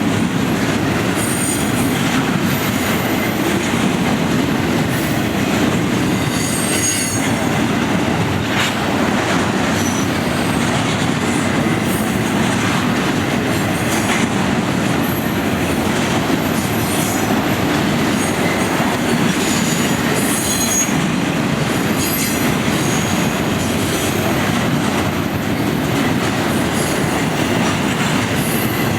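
Intermodal freight train cars rolling past with a steady loud rumble of steel wheels on rail, broken by short high-pitched wheel squeals that come and go.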